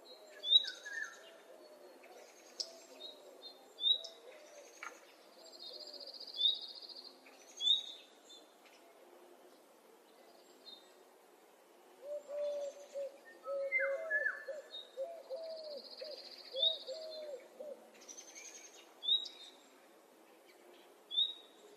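Several wild birds calling in a spring dawn chorus. Sharp high chirps repeat every second or two, and a high buzzing trill comes twice. Partway through, a run of low, repeated notes sounds beneath them.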